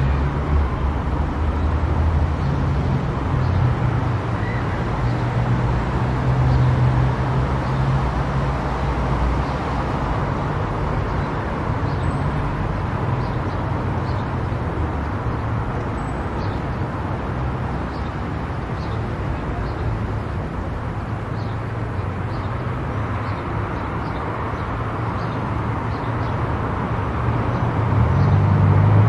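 Car driving at speed on an expressway: steady tyre, wind and engine noise with a low hum, growing louder near the end. Faint regular ticks about once a second come in the second half.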